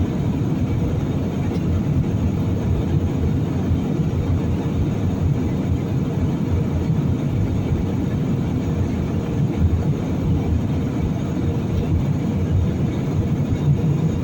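Steady, low cabin rumble of an airliner in flight on its descent, engine and airflow noise heard from inside the passenger cabin.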